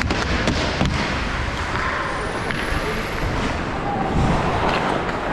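Ice hockey rink ambience: a steady noisy hum with a few faint knocks, during a stoppage in play.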